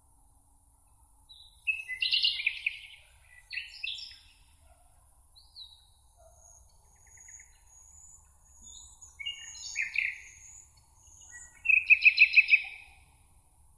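Songbirds singing: loud warbled phrases about two seconds in and again around ten seconds, faint high thin notes in between, and a fast trill of about six repeated notes near the end.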